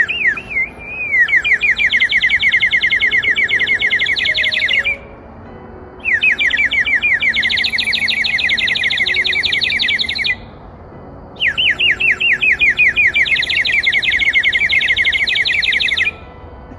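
Water-filled bird whistle blown in three long, loud warbling trills, each a few seconds long with a short break between, a fast bubbling warble that starts slower at the first blow.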